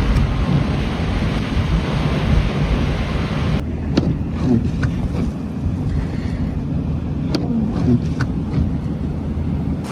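Blizzard wind rushing hard against the microphone. About three and a half seconds in it cuts abruptly to a lower steady rumble with a few sharp clicks.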